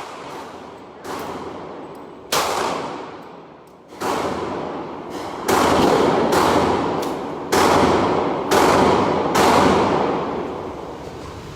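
Gunshots at a shooting range: about ten shots fired at uneven intervals, each sharp crack trailing off in a long echo.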